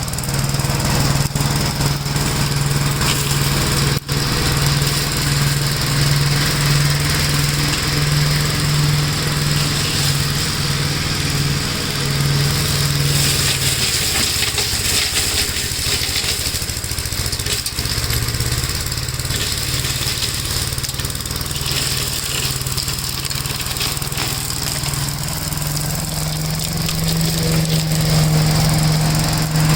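1969 Gravely L-I walk-behind tractor engine running steadily, its pitch rising a little near the end as it picks up speed.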